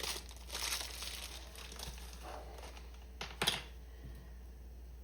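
Soft crinkling and rustling handling noises in a kitchen, with one short sharp tap about three and a half seconds in.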